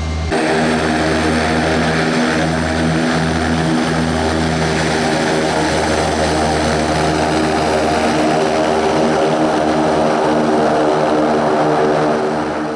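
Antonov twin-turboprop aircraft running steadily and loudly, its propellers giving an even, droning stack of tones over a rushing hiss, with no rise or fall in pitch.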